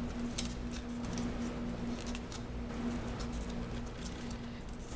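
Paper crinkling with scattered sharp ticks as hands press and shape the last folds of an origami paper model, the strongest tick about half a second in, over a steady low hum.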